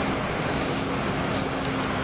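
X10 electric commuter train running along the track, heard from inside the carriage: a steady rumble of wheels on rails with a faint hum that comes and goes.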